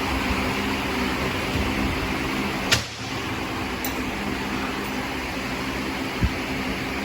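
Steady machine hum with a sharp click about three seconds in, after which the hum briefly dips, and a short dull knock near the end.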